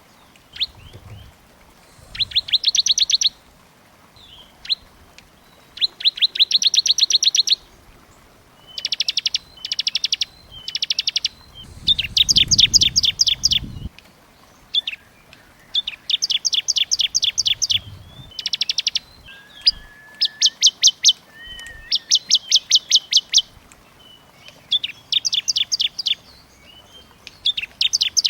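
Small songbirds giving dense, fast trills of rapidly repeated high notes, each trill lasting about a second, one after another with short pauses. This is a birdsong master recording of small birds, used to train captive songbirds.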